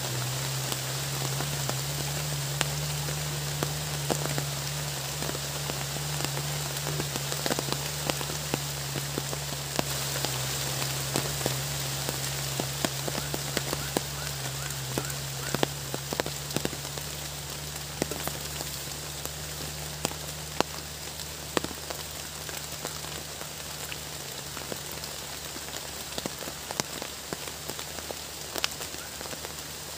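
Steady rain falling, with many individual drops tapping sharply on a nearby surface.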